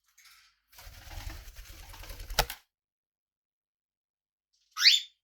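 About two seconds of clattering and tapping with a low rumble, ending in one sharp click. A few seconds later a pet parrot gives one short, loud chirp that rises quickly in pitch.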